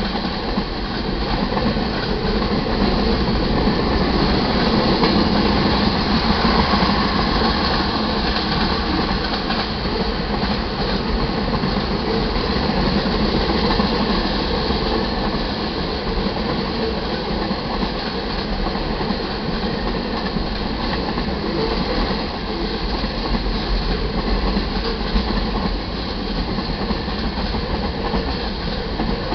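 Freight cars of a mixed manifest train rolling past: a steady noise of steel wheels running on the rails.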